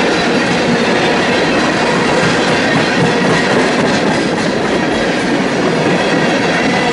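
Freight train cars rolling past, a steady, loud noise of steel wheels running on the rails.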